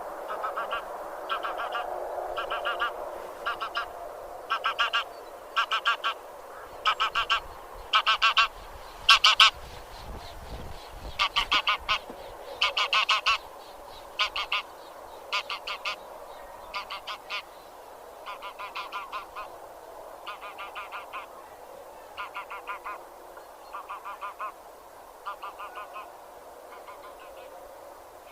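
A flock of Anser geese (grey geese) honking: loud calls come in quick clusters of two to four notes, loudest near the middle, over a steady background of many more goose calls.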